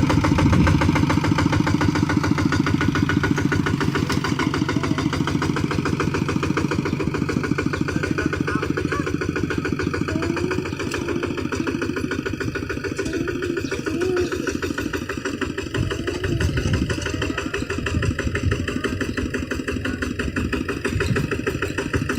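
Kubota RT155 single-cylinder diesel engine of a two-wheel hand tractor running steadily, with an even, rapid firing beat.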